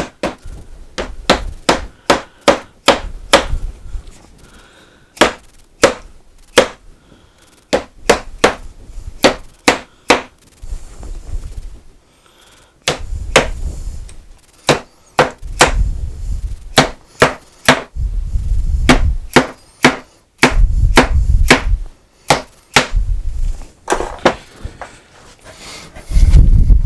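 Irregular series of sharp hammer taps and knocks, sometimes several in quick succession, with duller thuds in between and short pauses about 4 and 12 seconds in.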